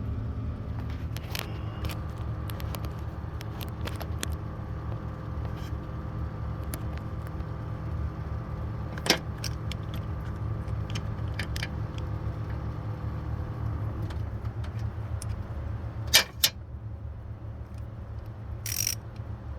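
Metal hand tools and sockets clinking and clicking while a belt tensioner is worked on, with a few sharp clicks about halfway and two more later, and a short hiss near the end. Under it runs a steady low hum.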